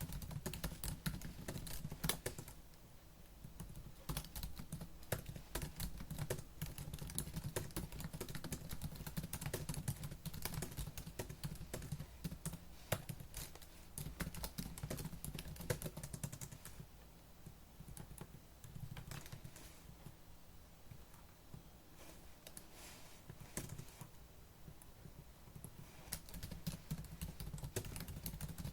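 Fast typing on a laptop keyboard: a dense, uneven run of key clicks that thins out briefly a few times and picks up again.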